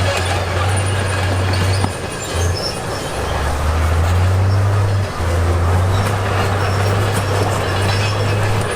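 Heavy earthmoving machinery at work: a diesel engine's low steady drone, with continuous metallic grinding and squealing.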